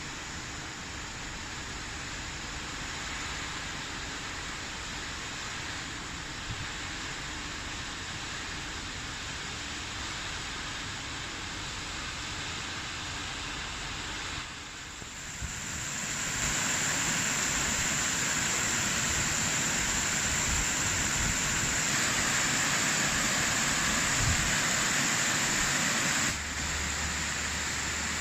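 Steady hiss of rainfall. It grows louder about halfway through and drops a little near the end.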